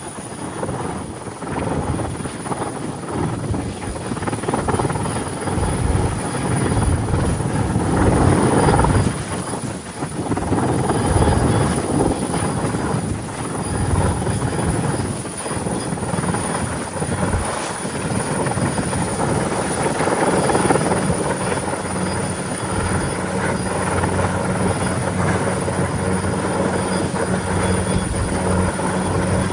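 Helicopter running, its rotor and engine noise rising and falling in loudness over several seconds, with a steady high whine.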